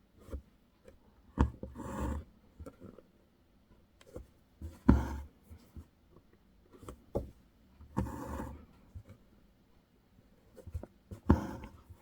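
Embroidery needle popping through fabric stretched in a hoop, each pop followed by the rasp of floss being drawn through; four stitches, about three seconds apart, with small ticks between.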